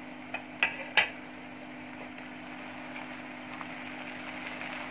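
Chopped onions and green chillies sizzling in hot oil in a nonstick pan, with a few short knocks in the first second. Near the end a slotted spatula starts stirring and the sizzle grows, over a low steady hum.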